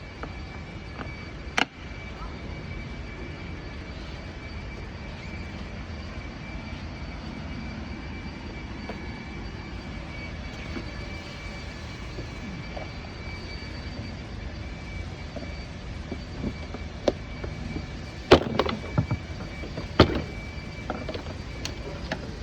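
A steady mechanical hum with a thin high whine runs throughout. A sharp click comes about a second and a half in, then several sharp clicks and snaps near the end, typical of plastic door trim clips being pried loose on a BMW door panel.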